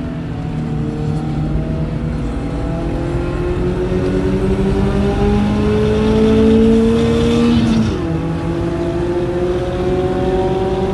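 BMW M42 four-cylinder engine heard from inside the cabin under acceleration on track, its pitch climbing steadily for about eight seconds. It then drops sharply at a gear change and starts climbing again.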